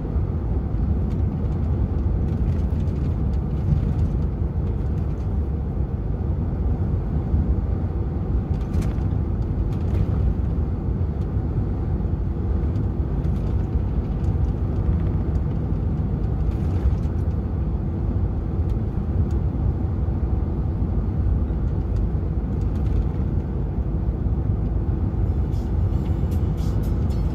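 DAF XF 480 truck's diesel engine and road noise heard from inside the cab while driving: a steady low drone. A few faint clicks come near the end.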